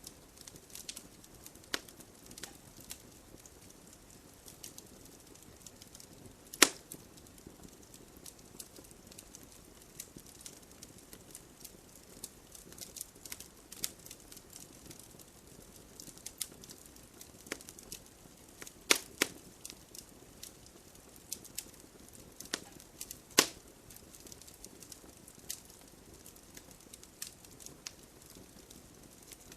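Wood logs burning in a fireplace, crackling with irregular small pops over a soft hiss, and three much louder, sharper pops spread through.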